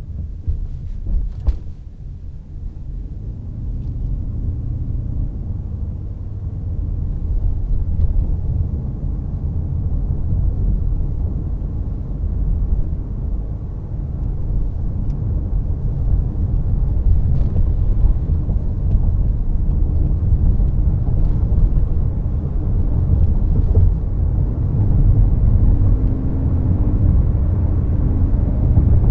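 Toyota C-HR 1.8 Hybrid on the move: a steady low road and drivetrain rumble that dips briefly and then grows louder as the car gathers speed, with a short click about a second and a half in.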